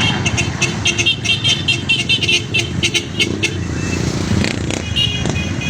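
Motorcycle and tricycle engines running in a riding convoy, a steady low rumble. Over the first half, a rapid run of short high-pitched sounds repeats several times a second, with a few more near the end.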